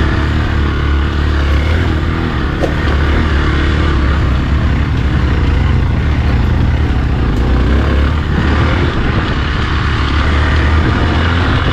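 Hero XPulse motorcycle riding along at a steady engine speed, with a constant low rumble and wind noise.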